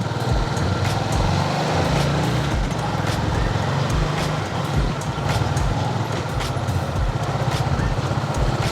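Motor vehicle engine running steadily with road and traffic noise, and many small rattles and clicks.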